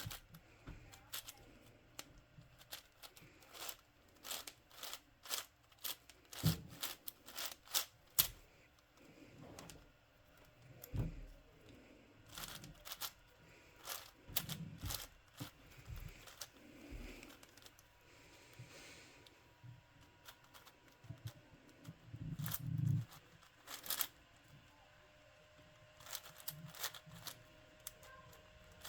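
Plastic puzzle cube being turned by hand in quick runs of sharp clicks and clacks, with short pauses between the bursts of turning.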